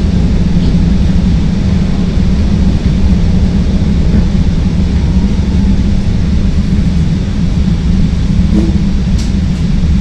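CTA Green Line elevated rapid-transit train running between stations, heard from inside the car as a loud, steady low rumble of wheels on rail.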